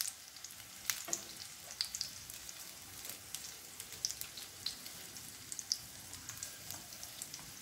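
Egg-stuffed tomato slices sizzling in shallow oil in a frying pan: a faint steady hiss with scattered crackles and pops. Light clicks come in now and then as the slices are turned over with a spatula and knife.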